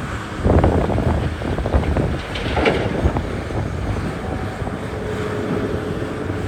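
Heavy diesel mining machinery running, with wind buffeting the microphone. Bursts of rattling and clatter come about half a second in and again about two and a half seconds in.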